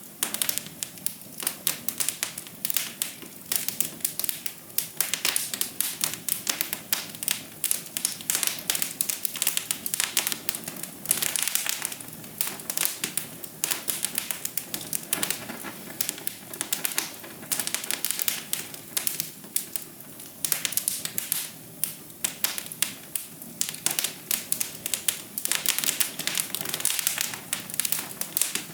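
Wood fire crackling in a fireplace: dense, irregular pops and snaps over a soft, steady hiss.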